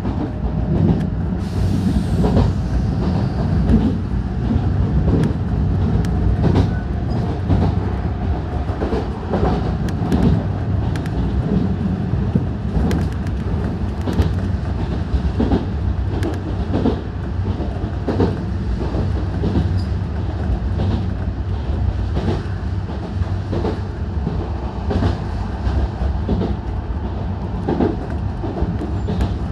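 Enshu Railway electric train running at speed, heard from inside the car behind the driver's cab: a steady low rumble with the wheels clicking over rail joints again and again.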